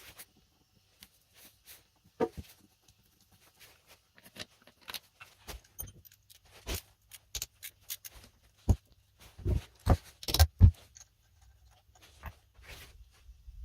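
Irregular clicks, taps and knocks of hand tools and small metal engine parts being handled during a moped engine teardown. They are busiest and loudest around ten seconds in.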